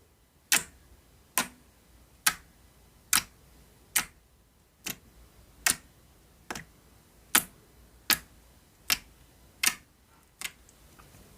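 Jiggly water slime (glue-based, with a lot of water) being handled, making a sharp click about once a second, thirteen times in an even rhythm.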